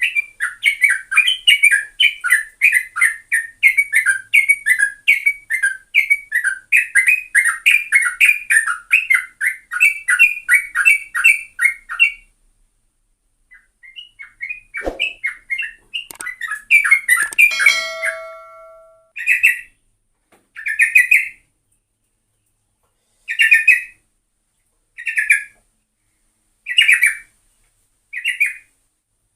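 Yellow-vented bulbul (trucukan) singing: a fast, continuous run of chattering notes for about twelve seconds, then after a short pause separate brief phrases every second or two.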